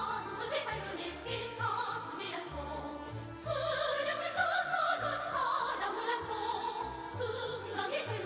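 Opera-style singing with strong vibrato over orchestral accompaniment, the voice line rising and falling in long held phrases.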